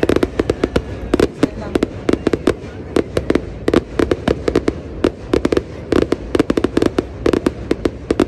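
Fireworks display: a rapid, uneven barrage of sharp bangs, several a second, from a salvo of aerial shells bursting low over the water.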